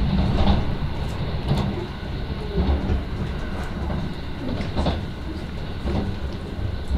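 Running noise inside a moving commuter train car: a steady low rumble of the wheels on the rails, with scattered clicks and knocks from the wheels passing over the track.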